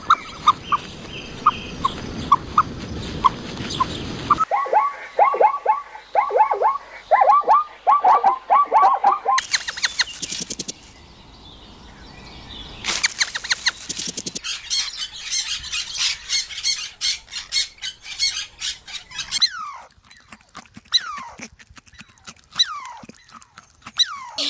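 Songbirds singing in a series of separate recordings joined by abrupt cuts. First come evenly spaced single chirps, then fast runs of falling trill notes. Dense high twittering follows, and near the end come clear whistles that slide downward.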